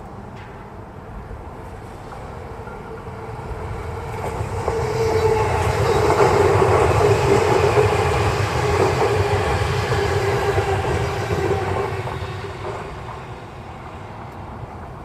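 A train passing by: its running noise swells over a few seconds, holds loudest for several seconds with a steady whine over the rumble of the wheels, then fades away.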